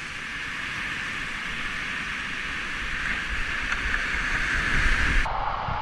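Steady rushing of river whitewater, an even hiss, with wind rumbling on the microphone. The sound changes abruptly a little before the end.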